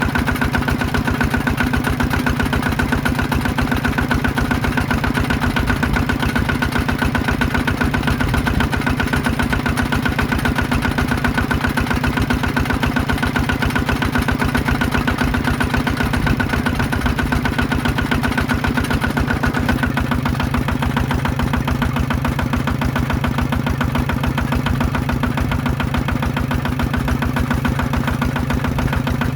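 Small diesel engine of a power tiller running steadily with a fast, even chugging. Its note shifts slightly, and a faint high whine fades, about two-thirds of the way through.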